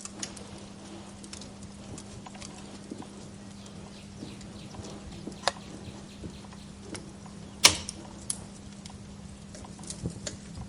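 Wood fire crackling: scattered small snaps and ticks, with one loud pop about two-thirds of the way through, over a steady low hum.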